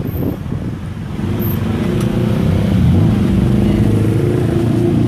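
A vehicle engine running close by: a low, steady drone that grows louder from about a second in.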